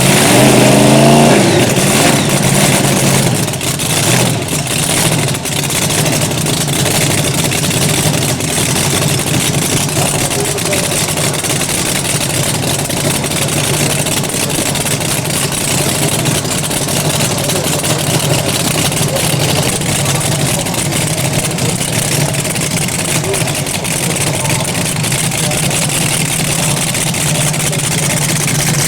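Drag-racing car engine revved hard in the first few seconds, its pitch climbing, then running on steadily at a lower, fluctuating pitch.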